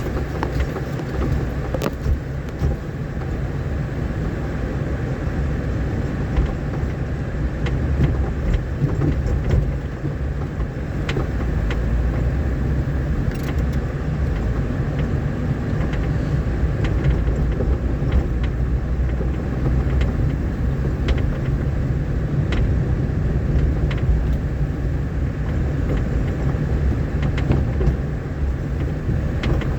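A vehicle driving over a rough, potholed dirt road: a steady low rumble of engine and tyres with scattered sharp knocks and rattles as it goes over bumps.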